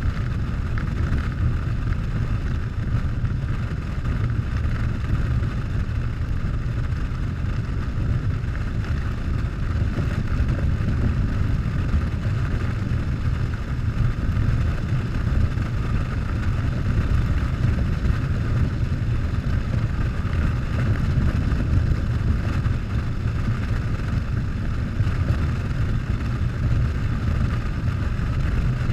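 Harley-Davidson Softail's V-twin engine running steadily while the motorcycle is ridden, a constant low rumble with road and wind noise that does not rise or fall.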